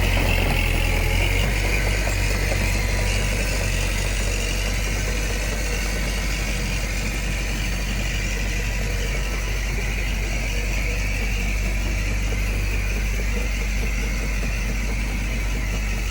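Diesel engine of a heavy machine running steadily at low revs.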